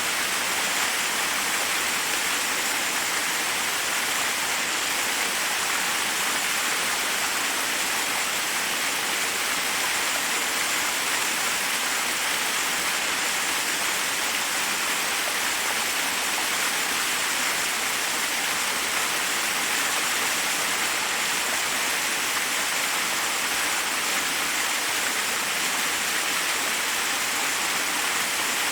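Waterfall rushing steadily over rocks, an even hiss of falling water.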